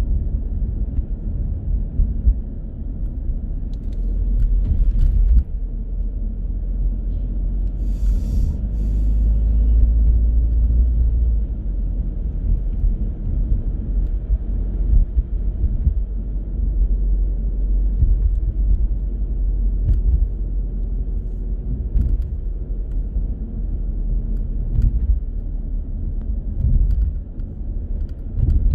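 Car driving: steady low road and engine rumble, with a brief hiss about eight seconds in.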